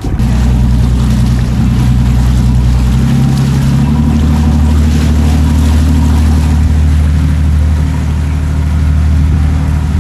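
Motorboat engine running steadily under way, its pitch stepping up about three to four seconds in as it speeds up, over a hiss of rushing water.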